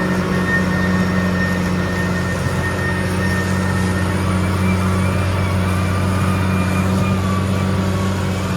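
Caterpillar D6R XL bulldozer's diesel engine running steadily, a constant low drone with faint wavering whines above it.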